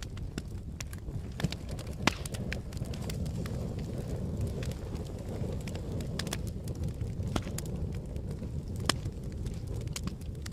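Campfire burning: a steady low rumble of flame with frequent sharp crackles and pops from the burning wood. A few louder pops stand out, about one and a half and two seconds in and again near the end.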